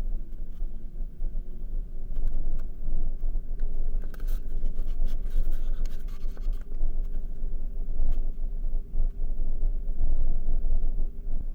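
Motor vehicle being driven, its engine running with a steady hum over a low rumble. A spell of clicking rattles comes about four to six seconds in.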